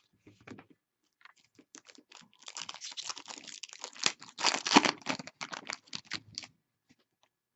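Hockey trading cards and their packaging being handled: a quick run of small clicks and rustles, sparse at first and thickest in the middle before tailing off near the end.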